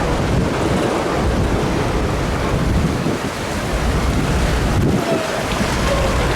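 Freight train rolling slowly through floodwater over the track, a steady loud rush of displaced water with a low rumble, and wind buffeting the microphone.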